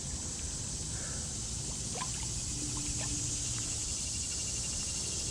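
Small spring creek trickling steadily, with a few faint clicks about two and three seconds in.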